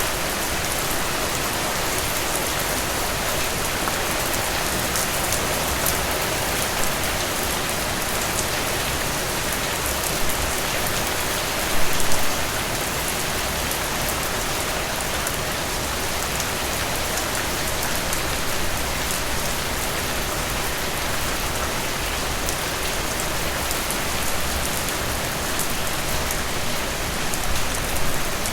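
Heavy rain falling steadily, a dense even hiss with individual drops ticking through it. About twelve seconds in, a brief cluster of louder splashes stands out.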